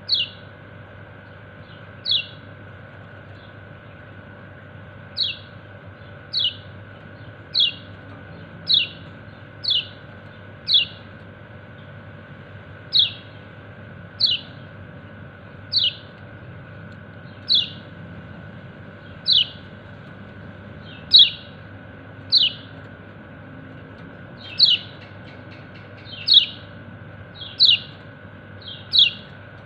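Kecial kuning, a yellow-breasted white-eye, repeating a sharp 'ciak' call note: short falling chirps about one a second, some coming in quick pairs near the end, over a steady low hum.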